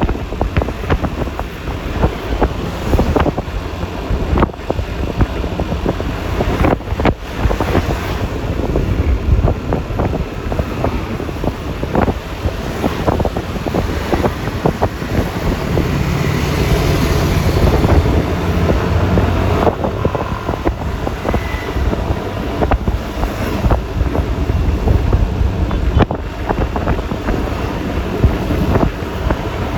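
Wind buffeting the microphone on a moving Yamaha Lexi LX 155 scooter, over the hum of road noise and traffic, with the level rising for a couple of seconds about halfway through.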